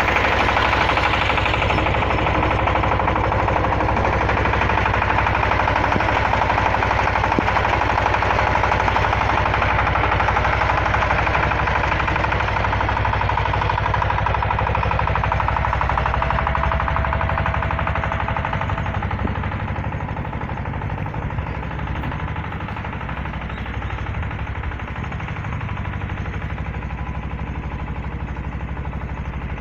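An XY-3 water-well drilling rig running: a steady fast mechanical clatter over a low engine hum, easing a little in the last third.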